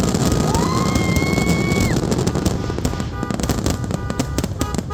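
Fireworks going off in rapid succession: dense crackling pops and bangs, thinning out toward the end. A held, whistle-like tone rises about half a second in and lasts over a second.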